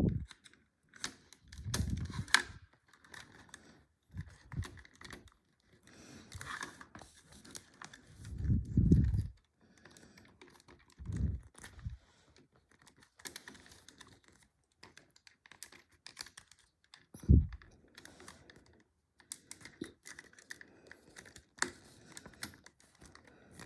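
LEGO bricks being handled and pressed together: irregular small plastic clicks and rattles, with a few dull bumps.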